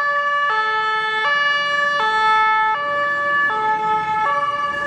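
Two-tone siren of a German fire engine (Martinshorn) sounding its "tatü-tata", alternating between a low and a high note, each held about three-quarters of a second.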